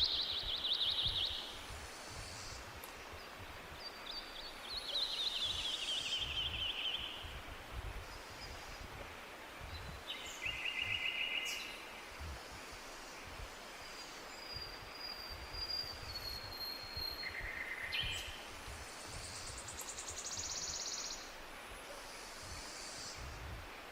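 Several wild birds singing in a forest: descending trills at the start and again around five seconds in, a short buzzy trill near ten seconds, a thin high whistle in the middle, and a high buzzy trill around nineteen seconds. A steady hiss and an uneven low rumble lie beneath.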